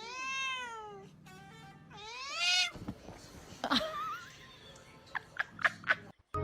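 A cat meowing: two long, drawn-out meows that rise and fall in pitch, about two seconds apart, followed by a few short clicks and knocks.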